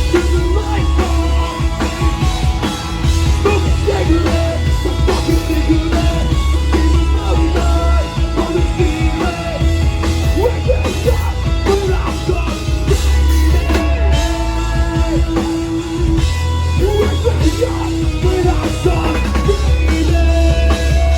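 A rock band playing live at full volume: electric guitars over a driving bass and drum kit.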